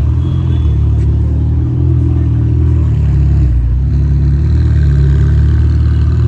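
Ferrari 488's twin-turbo V8 running at low revs: a steady, deep engine note that drifts slightly up and down in pitch.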